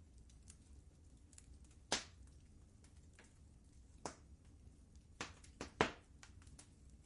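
Wood fire crackling in a fireplace: scattered sharp pops at irregular times, with three close together about five to six seconds in, over a low steady rumble.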